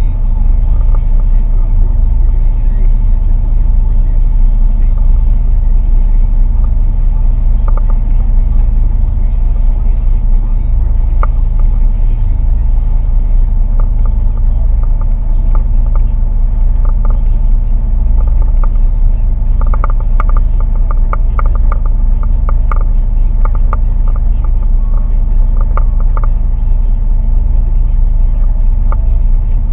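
A boat's engine running steadily: a loud, low, even drone with steady tones in it. A run of short clicks comes about two-thirds of the way through.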